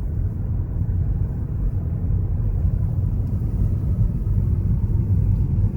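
Steady low road rumble inside a moving car's cabin: engine and tyre noise at cruising speed.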